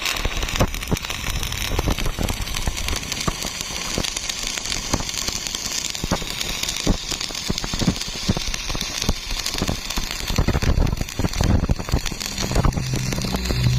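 Stick-welding arc on steel plate, crackling steadily with many sharp pops. A low hum comes in near the end.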